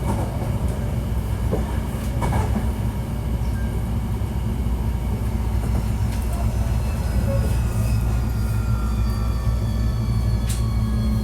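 Hankyu 1300 series electric train running, with a steady low rumble of wheels on rail and a couple of sharp rail-joint clicks. Through the second half a traction-motor whine falls steadily in pitch as the train brakes for its stop.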